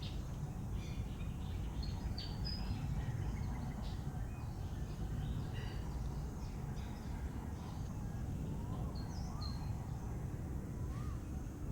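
Birds chirping over a steady low outdoor rumble: short high chirps scattered through, and a few soft rising-and-falling calls near the end.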